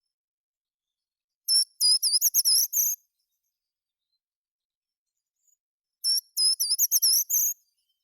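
A songbird singing two short, high-pitched phrases of quick looping, rapidly repeated notes, each lasting about a second and a half, the first about a second and a half in and the second about six seconds in, with a few seconds of quiet between them.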